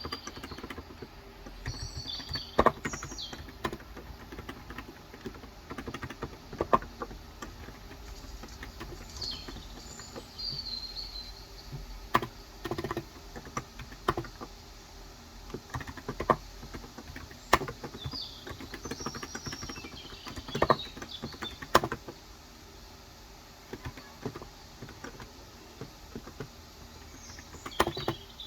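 Irregular typing on a Cox Endeavor electro-capacitive (Topre-style) keyboard with 35 g switches: scattered keystrokes with pauses between them, a few louder clacks among them. Birds chirp in short bursts several times in the background.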